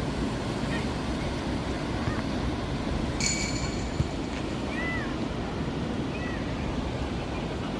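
Sea waves washing ashore in a steady rush of surf. A few faint short chirps sound over it, and there is a brief high whistle-like tone about three seconds in.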